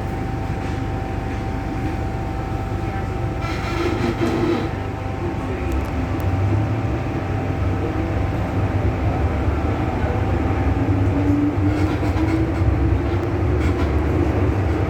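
MTR M-Train electric multiple unit running, with steady wheel and motor noise. There is a short hiss about four seconds in. From about ten seconds in, a motor whine rises slowly in pitch as the train picks up speed.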